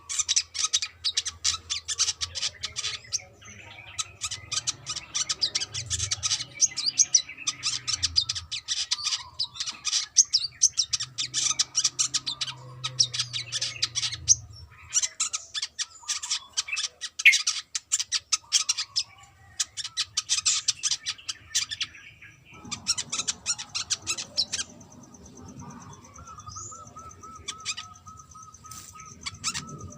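Brown-throated sunbird singing in bouts of fast, high, chattering notes broken by short pauses. It drops to a few faint calls near the end, over a thin steady tone.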